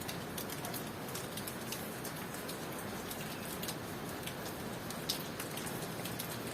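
Steady rain falling: an even hiss with many sharp ticks from individual drops striking a surface.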